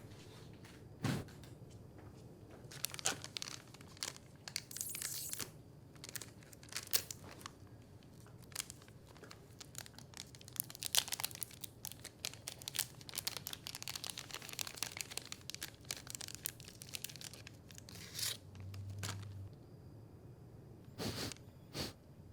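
Irregular crinkling and tearing: a long run of short crackles, densest in the middle, with a few louder snaps.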